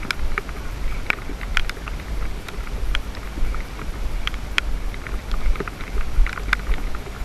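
Wind buffeting the microphone of a GoPro Hero 3+ during a ride in the rain, a fluttering low rumble with scattered sharp ticks through it.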